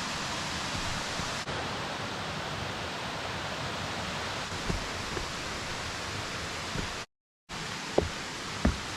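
Steady rush of a waterfall, broken by a brief cut to silence about seven seconds in, with a couple of short thumps just after.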